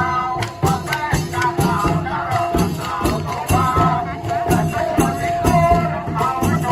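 Thai klong yao long-drum procession band playing: drums keep a steady beat with cymbals jingling over it, and a melody runs above.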